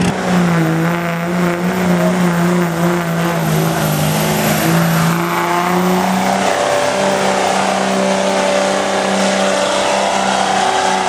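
Diesel truck engine running hard and steady, its pitch wavering slightly, with a higher whine that slides down in pitch through the middle.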